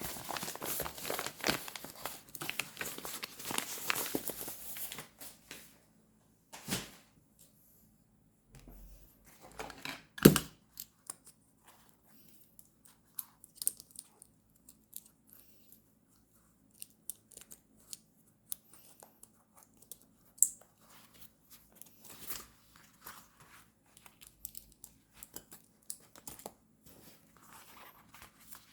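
Paper being handled for journaling: torn and crinkled for the first five seconds or so. After that come scattered light taps and rustles, with one sharp knock about ten seconds in.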